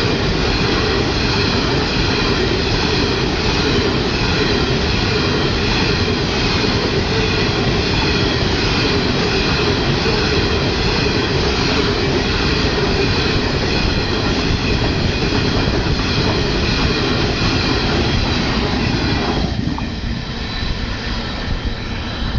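Coal train wagons rolling past on the rails: a steady rumble of wheels on track with high, held wheel squeal over it. Near the end the noise thins and drops a little.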